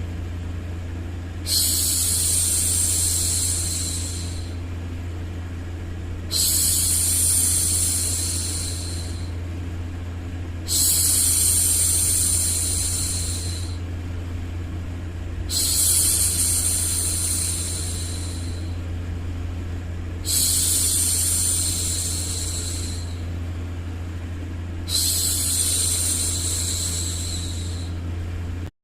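A woman's voice making long "shhh" hushing sounds to soothe a baby, six in a row, each about three seconds long and starting sharply every five seconds or so. Under them runs a steady low hum.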